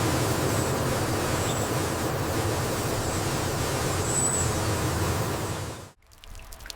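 Steady rushing and splashing of a vehicle driving through deep floodwater, cutting off abruptly about six seconds in.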